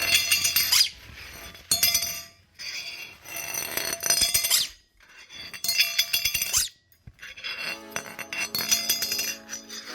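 Hard toys clinking and rattling in bursts with short pauses between them, the ringing rattle of objects being tossed and rolled across a floor, some ending with a sliding wobble as an object spins down.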